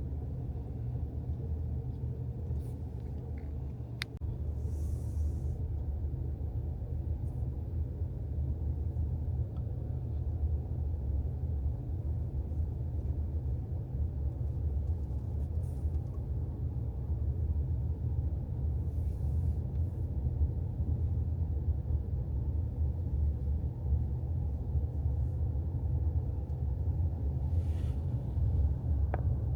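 Steady low rumble throughout, growing slightly louder, with a few faint clicks.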